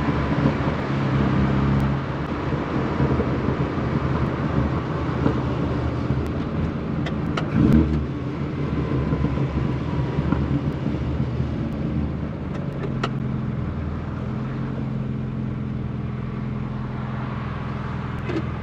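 Rover Mini's A-series four-cylinder engine running on the move with road noise, the engine note shifting a couple of times with speed. A short, louder thump about eight seconds in.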